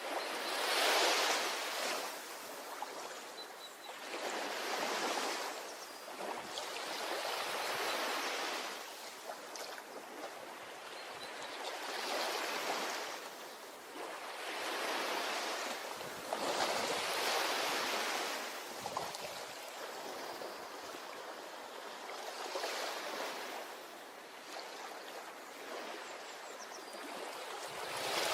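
Small waves breaking and washing up a beach, swelling and fading in a slow rhythm every few seconds.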